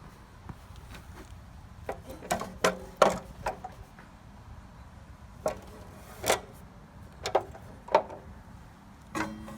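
A string of irregular knocks and clunks, about nine in all, spaced unevenly as things are handled and set down. Guitar music starts near the end.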